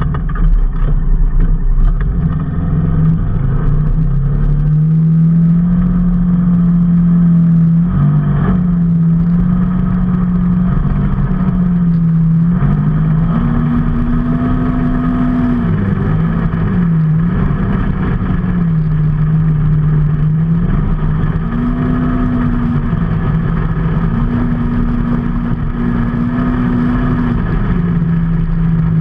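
A motor vehicle's engine running while on the move, its pitch stepping up and falling back several times.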